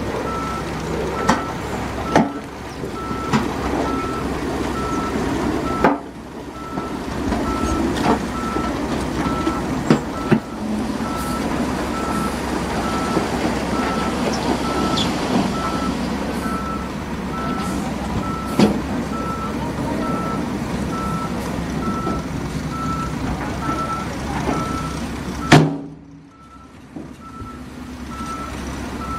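Back-up alarm on heavy construction machinery beeping in an even, steady series over a running diesel engine, with occasional sharp clanks. The loudest clank comes near the end.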